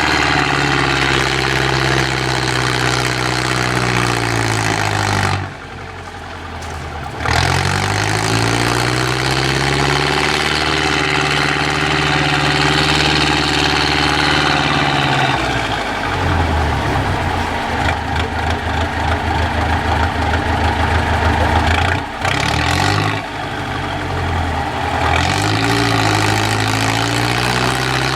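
IFA W50 truck's diesel engine working under load, its pitch rising and falling as the throttle opens and closes. It drops back sharply about five seconds in, then picks up again; later it settles to a low, rough, pulsing beat for several seconds before revving up once more.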